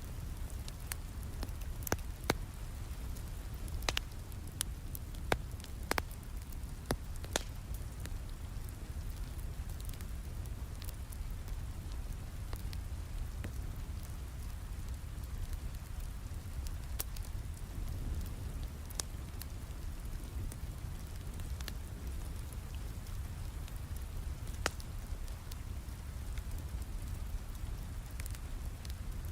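Steady rain falling, mixed with a wood fire crackling in a fireplace. Sharp pops come thickly in the first several seconds and more sparsely after that.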